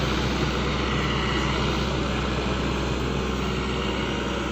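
SANY excavator's diesel engine running at a steady speed, a constant drone that does not change in pitch.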